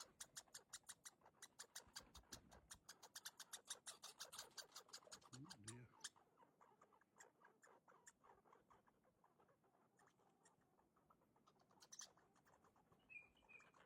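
A raccoon eating, with rapid faint crunching clicks several times a second. The clicks thin out and grow quieter after about six seconds.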